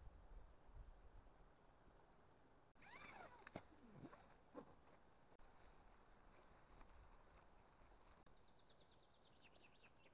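Faint wild birdsong in woodland: a few quick calls with sweeping pitch about three seconds in, and a rapid run of repeated high notes near the end.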